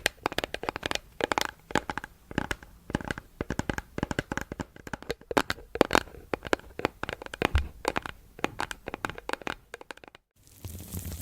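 Rapid, irregular crisp clicks and scratchy crackles at close range, made by hands handling something. They stop abruptly about ten seconds in, followed by a brief silence and then a steady hiss.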